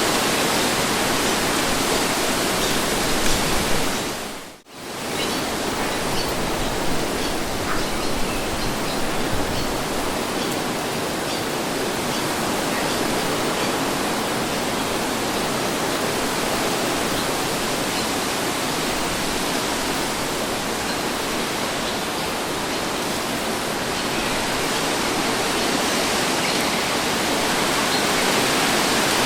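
Wind blowing as a steady, even hiss, with one brief drop-out about four and a half seconds in, where it fades almost to nothing and comes straight back.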